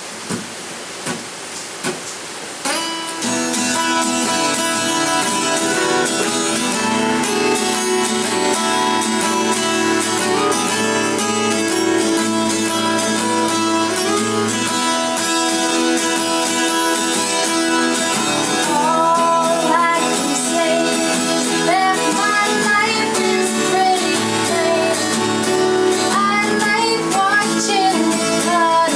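Rain falling, then about three seconds in an acoustic guitar starts playing a song; a voice singing over it comes in after about nineteen seconds.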